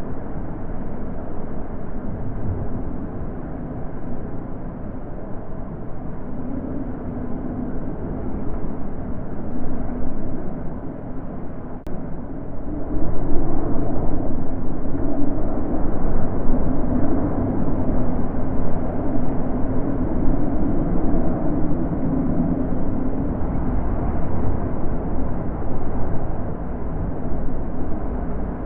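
Wind blowing in slow gusts, a deep rushing rumble that swells and eases, growing stronger about halfway through.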